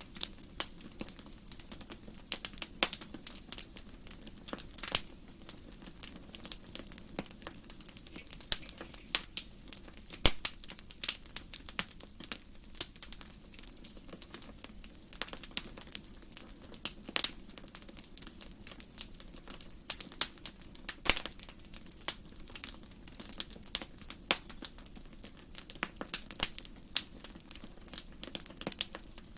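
Wood fire burning in a fireplace, crackling with irregular sharp pops and snaps over a steady low background.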